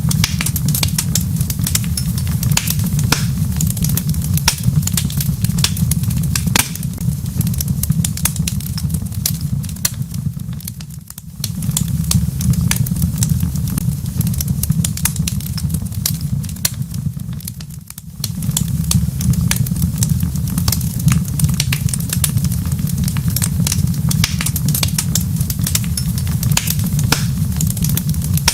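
Wood fire crackling in a fireplace: many sharp pops and crackles over a steady low rumble, which dips briefly twice.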